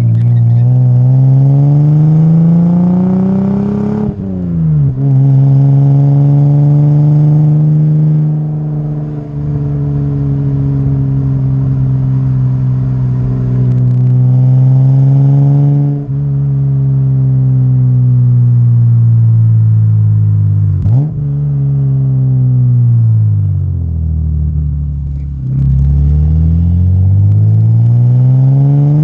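Lexus SC300's inline-six through a Blitz Nur Spec-R aftermarket exhaust while driving: the note climbs as the car pulls, drops at a gear change about four seconds in, holds near-steady through a cruise, gives a quick rev swoop a little past the two-thirds mark, falls away as the car slows, then climbs again as it pulls once more.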